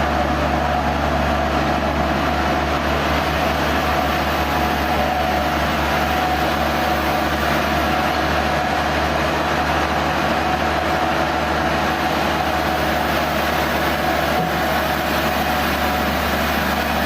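Sawmill machinery running steadily: a constant low hum with a steady whine above it, unchanging throughout.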